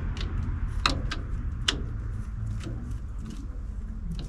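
A few short, light clicks and taps, as of small parts being handled, over a low steady rumble that eases off slightly.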